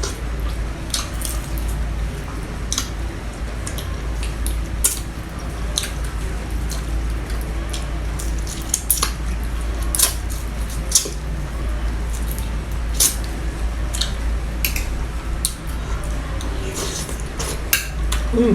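Eating utensils clicking and scraping against a plate and bowl at irregular intervals while eating, over a steady low hum.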